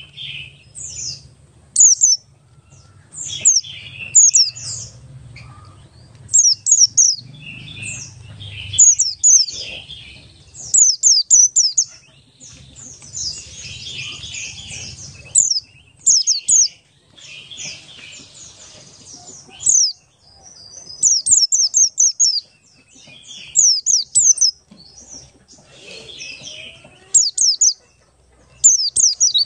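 Oriental white-eye (pleci buxtoni) singing continuously: quick runs of three to six high, thin notes, each sweeping downward, repeated every second or two, with softer, lower twittering in between. A faint low hum sits under the first third.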